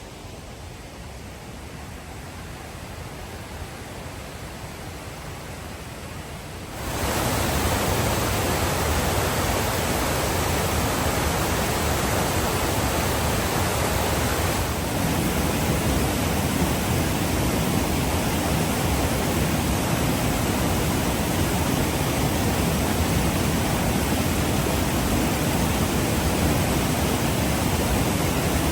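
Rushing water of the River Dee pouring through the Linn of Dee falls, running high and forceful after heavy rain: a steady roar of white water. About seven seconds in it jumps suddenly louder and stays that way.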